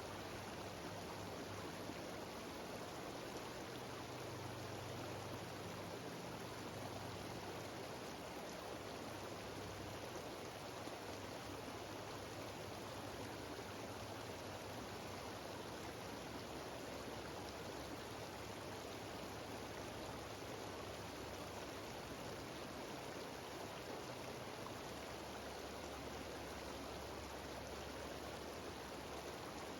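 Mountain stream cascading over rocks: a steady, even rushing of water with no breaks.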